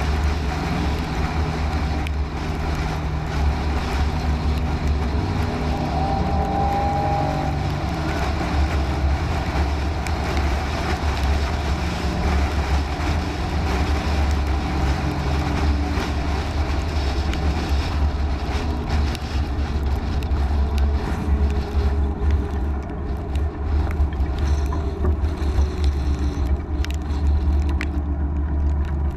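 Steady low rumble with a noisy hiss, typical of a moving vehicle heard from inside: engine and road noise.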